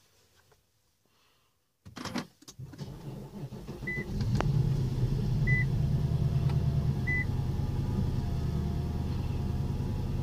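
2011 Infiniti M56's 5.6-litre V8 heard from inside the cabin: the starter cranks about two seconds in, the engine catches and settles into a steady fast idle of a cold start. A dashboard warning chime beeps three times, evenly spaced, while it idles.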